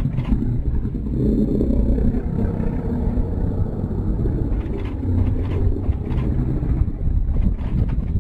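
Lions growling as a lioness fights a male lion: a deep, continuous rumbling growl, loudest between about one and three seconds in.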